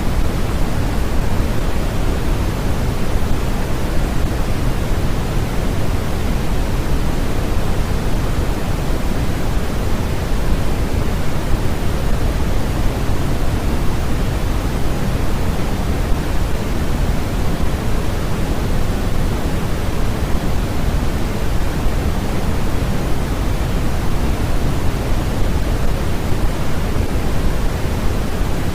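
Steady generated noise of the kind played for sleep and focus: an even rushing hiss, weighted toward the low end so it sounds deeper than plain hiss, unchanging throughout.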